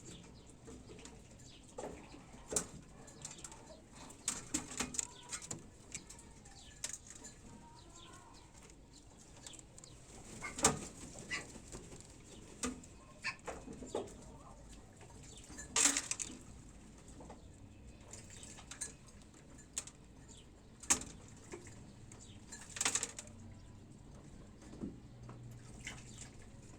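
Pigeons moving about at the nest: scattered short wing flaps, knocks and rustles, with a few faint chirps in between.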